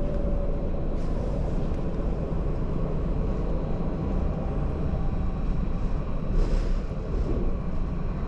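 Steady low rumble of a tram running along its rails, heard from inside the passenger car.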